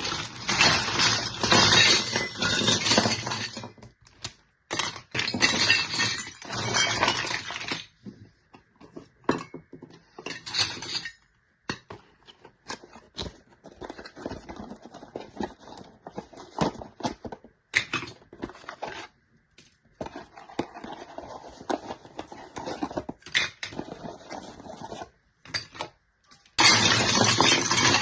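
Handling of a toy kitchen set being unboxed: long stretches of crinkling and rustling, likely plastic packaging, with many small clicks and clinks of miniature kitchen pieces in between.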